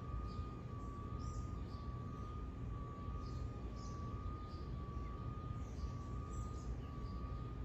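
Birds chirping in short high calls, irregularly about once a second, over a steady low background rumble and a faint steady whine.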